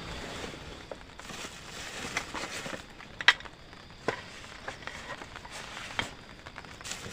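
Rustling and crinkling of material being handled, with scattered light knocks and one sharp crack about three seconds in.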